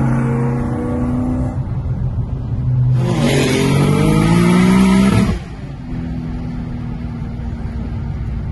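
Racing car engine under hard acceleration: a steady engine note, then a loud full-throttle pull whose pitch rises for about two seconds and cuts off suddenly, followed by a quieter, steadier engine note.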